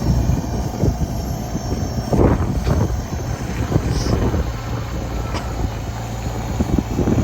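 Tractor engine running steadily, with wind buffeting the microphone and a few short knocks a couple of seconds in.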